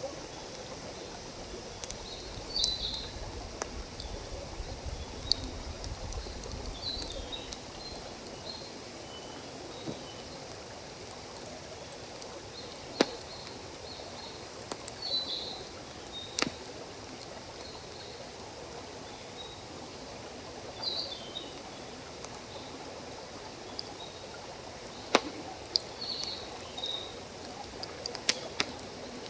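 Wood campfire crackling with scattered sharp pops over the steady rush of a forest stream, while a bird gives short calls every few seconds.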